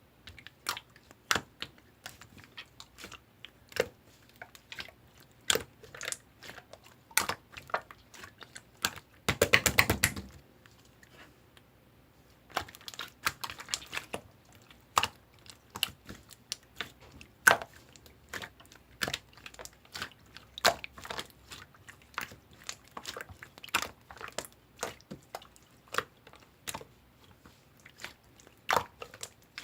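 Clear slime being played with, making irregular sharp clicks and pops, with a dense patch of crackling about nine to ten seconds in.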